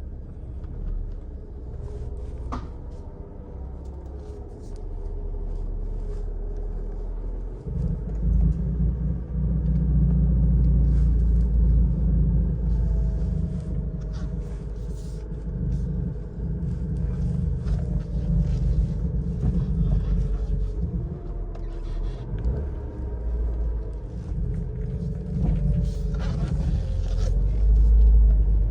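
1999 Honda Civic's four-cylinder engine and exhaust heard from inside the cabin while driving: a loud, low drone that swells about eight seconds in. The engine note rises and falls through the rest of the drive.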